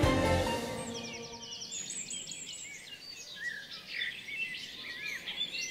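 Background music dying away in the first second or so, then birds chirping and calling, several short rising and falling chirps overlapping.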